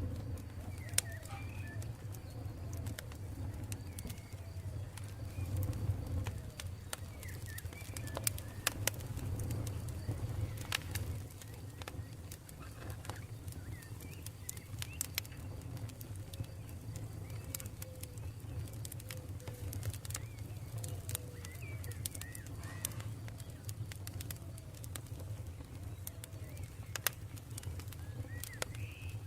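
Campfire burning with a steady low rumble and frequent sharp, irregular crackles and pops from the burning wood. Faint short bird calls sound now and then in the background.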